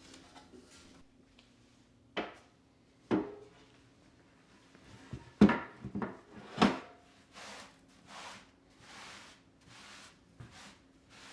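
Household objects handled and set down on a wooden surface: a few sharp knocks and clunks, the loudest about halfway through, followed by several soft rustling swishes.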